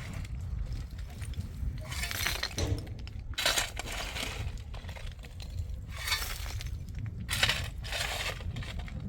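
Repeated short gritty scraping or crunching strokes, about six of them at uneven intervals, over a low steady rumble.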